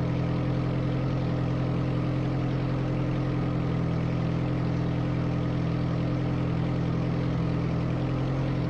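Carbureted Toyota 22R four-cylinder engine of a 1984 Sunrader idling steadily at an even pitch, warming up after a cold start following more than a month of sitting.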